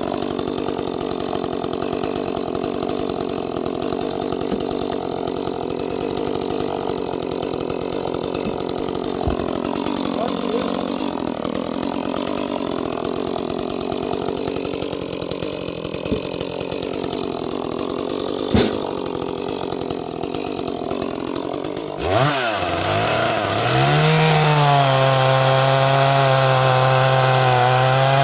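Small 30cc Echo chainsaw cutting through oak, its engine working under load with a wavering pitch. About 22 seconds in, the sound changes abruptly: the pitch dips, then sweeps up and holds a steady, clear high-speed run.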